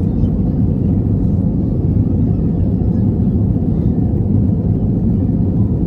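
Steady low rumble of an Airbus A321's jet engines and airflow, heard inside the passenger cabin.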